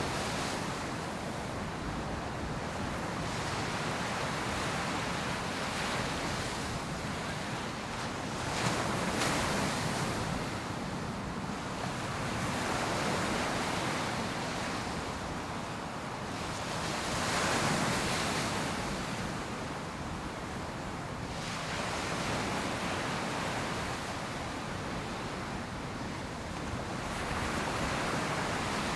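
Ocean surf breaking on a beach: a steady wash of water noise that swells as each wave breaks, about every four to five seconds, with the biggest breaks about nine and eighteen seconds in. Some wind noise on the microphone.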